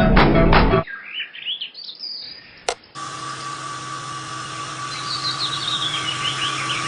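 Guitar-style music stops abruptly about a second in, giving way to small birds chirping. A sharp click comes just before the halfway point, then a steady background with a constant faint tone under a run of repeated bird chirps.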